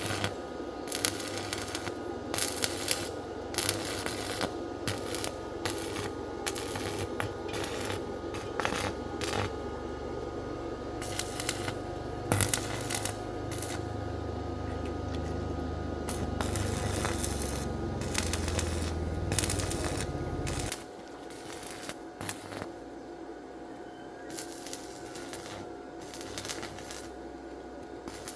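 Repeated metallic clinks and light scraping of tools and parts being handled, over a low rumble that cuts off suddenly about twenty seconds in.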